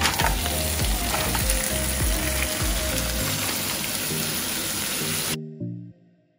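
Crab pieces and aromatics sizzling in hot oil in a wok, a loud steady hiss that cuts off suddenly a little over five seconds in, with background music underneath.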